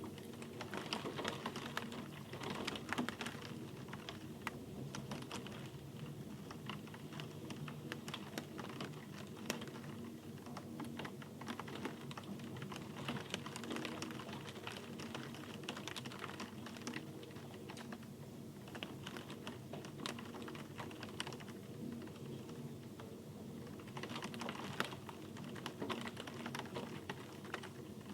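Steady rain, heard as a dense, irregular patter of sharp drop taps over a soft background hiss.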